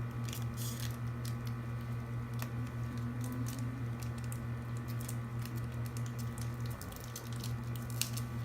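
A steady low electrical-sounding hum runs throughout, dipping briefly near the end. Over it come scattered faint clicks and soft wet mouth and handling noises of sour candies being sucked and chewed.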